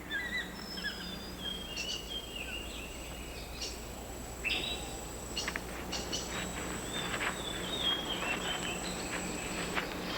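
Rain forest canopy ambience: birds giving short chirps, trills and clicks over a steady insect drone.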